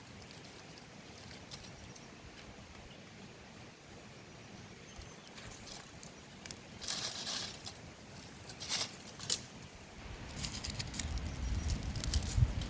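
A few short rustling, scraping noises over a faint steady hiss, with handling noise and a low rumble building near the end.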